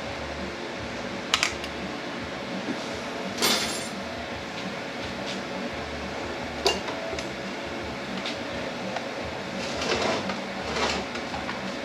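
Metal transmission parts and hand tools clinking and knocking on the bench during teardown of a 10R80 automatic: sharp single clinks at about one and a half, three and a half and nearly seven seconds in, and a short scraping rattle near the end, over a steady background hum.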